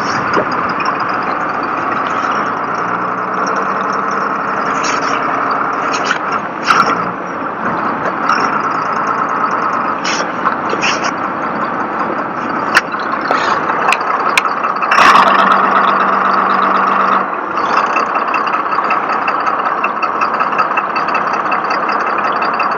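Truck engine running steadily, with a few short clanks and knocks scattered through.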